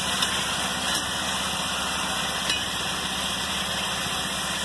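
Chicken pieces sizzling in hot ghee with onions as they are sautéed in an aluminium pot: a steady frying hiss.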